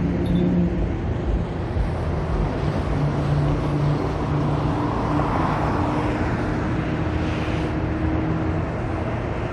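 Road traffic: vehicles driving past with a steady engine hum, one passing louder about halfway through.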